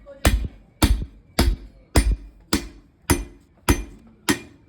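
Steady, evenly spaced hammer blows on metal, a little under two strikes a second, each with a brief ring. They come from hand-fitting parts into a Bedford engine block.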